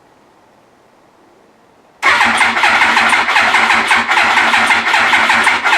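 Yamaha YZF-R1 inline-four being turned over by its starter motor. It starts about two seconds in and cranks with an even, pulsing rhythm without catching; the owner puts the failure to fire down to a dead battery.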